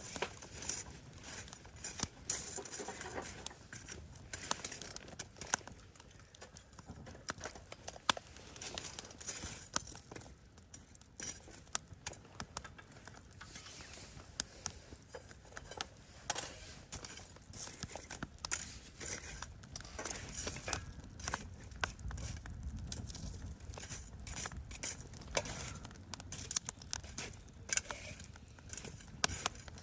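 Campfire of charcoal and embers crackling, with many irregular sharp snaps and light clinks.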